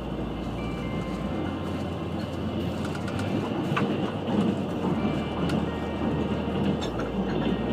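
Steady rumble of a moving passenger train carriage on the Trans-Siberian Railway heard from inside: wheels running on the rails, with a few faint clicks and short squeaks.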